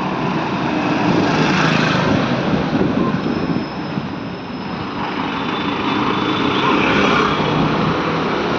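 Kawasaki Ninja Z900's inline-four engine running under way, mixed with road and wind noise. It eases off about halfway, then picks up again.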